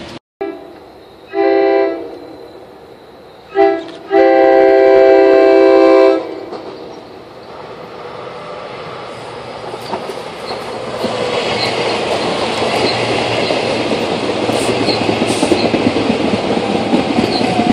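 SEPTA electric multiple-unit commuter train sounding its horn three times: a blast, a short toot, then a long blast of about two seconds. It then rumbles up and passes close by, with wheels clicking over the rail joints and a rising whine.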